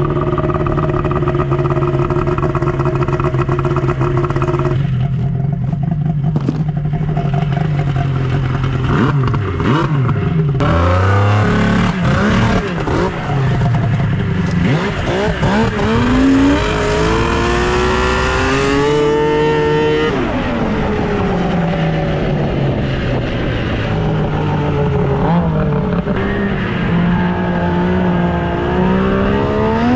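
Snowmobile engine idling steadily for about ten seconds, then revved, its pitch climbing and falling again and again. It is being run hard to clean it out so it does not foul a spark plug.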